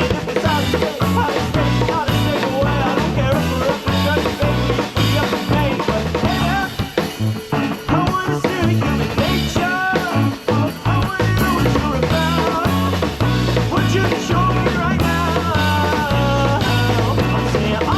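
Rock band playing an instrumental passage live: drum kit with rimshots and bass under a bending lead melody line.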